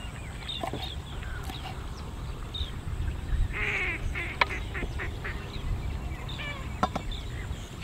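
Repeated short bird calls, thickest a few seconds in, over a steady low rumble. A few sharp clicks come through, the loudest about halfway.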